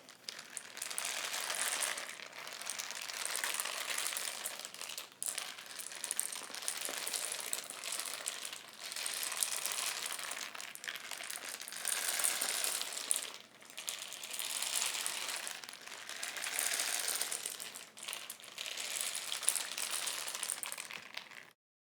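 Homemade rain stick being tipped end over end, its loose fill cascading down the tube in a rushing trickle. It comes in about eight pours of two to three seconds each, with a short lull each time the stick is turned over.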